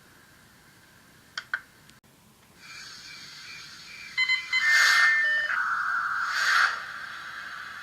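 A run of electronic beeps and steady tones that step from pitch to pitch, with two short clicks before them and two loud bursts of hiss among them.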